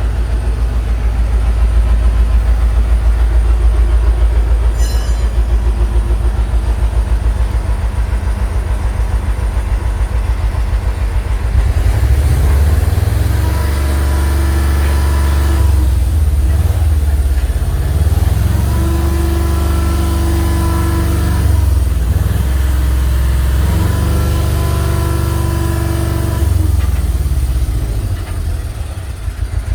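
Heavy diesel engine of a large vehicle idling with a low, even throb, then revving up and easing off about three times from roughly twelve seconds in.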